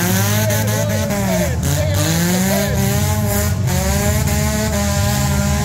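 Engines of several stock compact demolition derby cars revving at once, their pitches rising and falling and overlapping.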